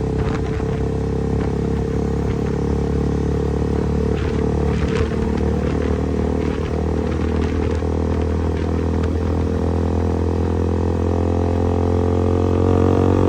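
KTM motorcycle engine with an aftermarket exhaust, running at steady revs while riding, its pitch rising slightly near the end.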